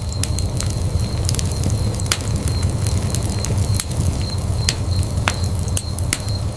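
Wood fire burning in a fireplace: a steady low rumble of the flames with irregular sharp crackles and pops from the burning wood.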